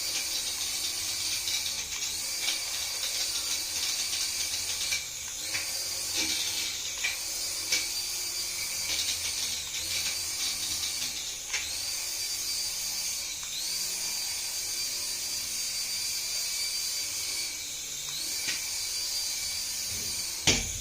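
Small electric motor of a remote-control toy whining at high pitch. It spins down and speeds back up again and again, every one to four seconds, as the throttle is let off and pressed.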